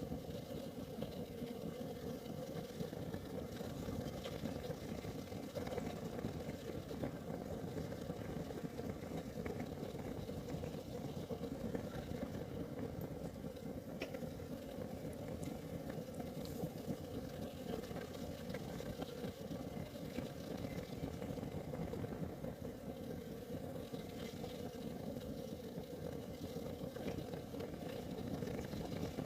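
Kerosene heater burning: a steady, low rumble of the flame, with an occasional faint tick.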